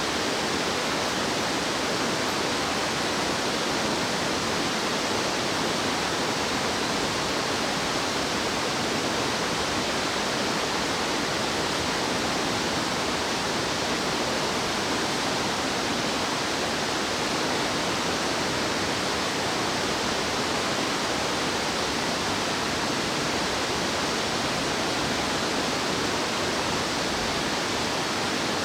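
Fast-flowing stream water rushing steadily, an even hiss-like wash of sound with no break.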